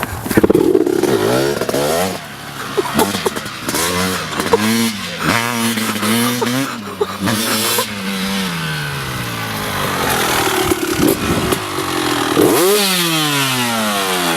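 Dirt bike engine running after a bump start, revved up and down over and over. Near the end one sharp rev is followed by a long falling drop in pitch.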